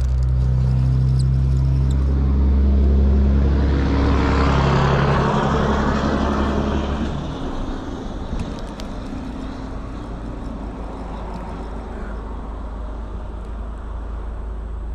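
A motor vehicle's engine running close by. It is loudest in the first half, with a rush of noise that swells and fades around four to six seconds in, then drops to a steadier, quieter low rumble.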